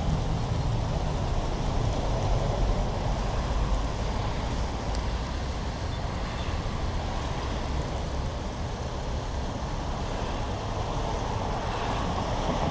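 Steady road traffic: car and truck engines and tyres making a constant low rumble, with no single event standing out.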